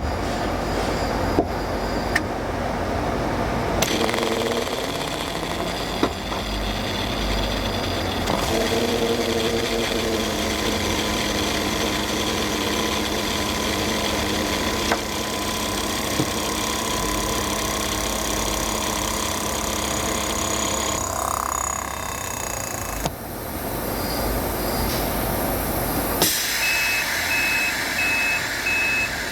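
Remanufactured Mercedes-Benz EV electric A/C compressor (model ESBA34C) running under test: a steady mechanical hum and whine whose tones shift a few times as it runs. An evenly repeated beep starts near the end.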